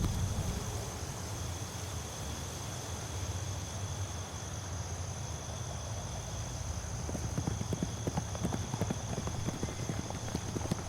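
Horse hooves clip-clopping, the steps starting about seven seconds in, over a steady low rumble and a faint, steady high tone.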